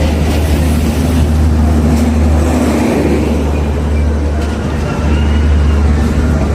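Diesel locomotive engine running nearby, a steady low drone under a haze of train and station noise.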